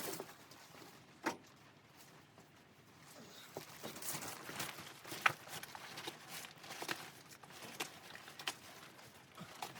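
Footsteps crunching through snow, an uneven series of short crunches with a few sharper ones.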